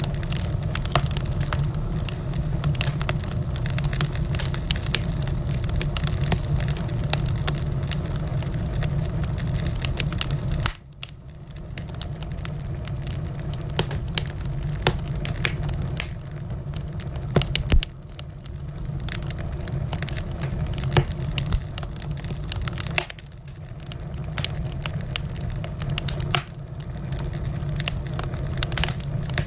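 Wood fire in a fireplace crackling, with frequent sharp pops and snaps over a steady low rumble of the flames. The low rumble drops away suddenly a few times and builds back over a second or so.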